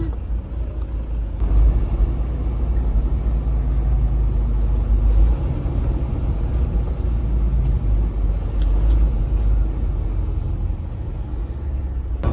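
Steady low drone of engine and road noise heard inside a semi-truck's cab while driving on the highway. It gets a little louder about a second and a half in.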